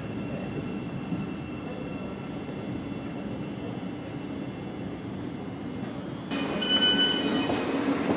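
Thameslink electric train running with a steady low rumble and a faint electric whine. About six seconds in, the noise grows louder and a brief high-pitched squeal, typical of wheels on the rail, sounds for under a second.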